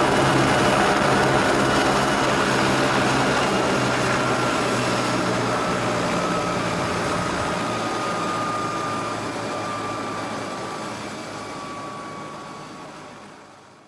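Steady engine drone with a thin whine gliding slowly downward, fading out near the end.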